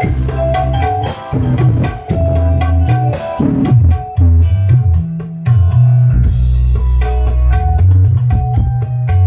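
Loud music with guitar, drums and heavy bass played through a sound system powered by a Class H amplifier during a sound check.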